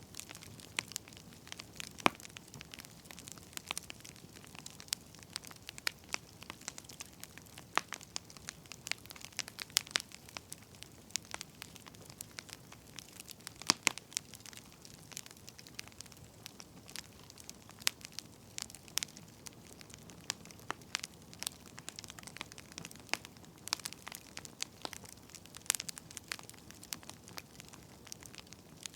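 Wood fire crackling steadily, with irregular sharp pops and snaps over a faint hiss.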